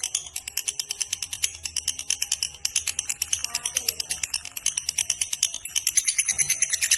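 Lovebird's ngekek: a long, rapid chattering trill of sharp, high notes, about ten a second, growing louder near the end.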